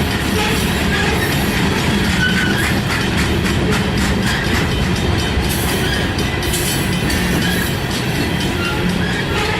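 Freight train rolling past close by, steady and loud, its wheels clicking over the rail joints.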